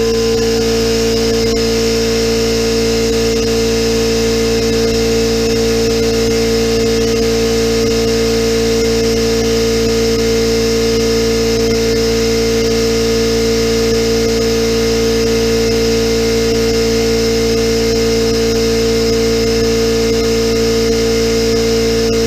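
Central Pneumatic 21-gallon, 2.5 HP cast-iron oil-lubricated air compressor running steadily under load, pumping the tank up through the last pressure before its switch cuts out at 120 PSI. A steady motor-and-pump hum with a strong fixed tone.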